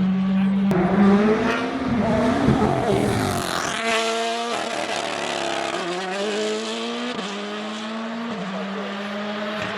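Rally car engine revving hard, its pitch climbing and dropping through gear changes, with a high climb and cutoff about four seconds in.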